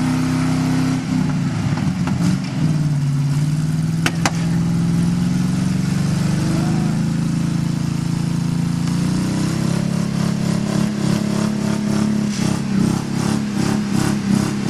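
Mud bog race trucks' engines running hard under load, the pitch dropping about a second in and climbing again around nine seconds in. A couple of sharp clicks about four seconds in.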